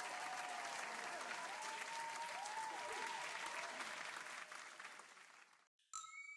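Crowd applause sound effect: steady clapping that cuts in suddenly and fades out near the end.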